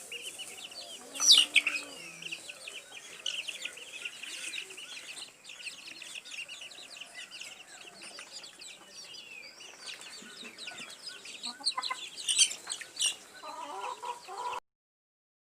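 Many birds calling at once: a dense chorus of short, overlapping high-pitched calls, with a few louder calls about a second in and again near the end. The sound stops abruptly near the end.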